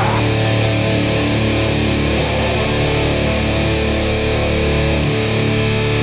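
Live hardcore punk band's distorted electric guitars and bass holding one sustained chord, ringing out without drums, loud through the venue's PA.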